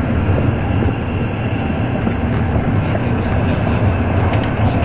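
Steady rumble and rush of an N700 series Shinkansen running at speed, heard inside the passenger cabin.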